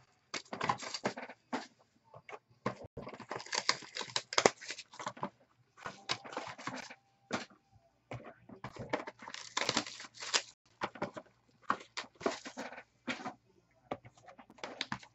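Trading cards and their packaging being handled: irregular rustling, crinkling and light clicks.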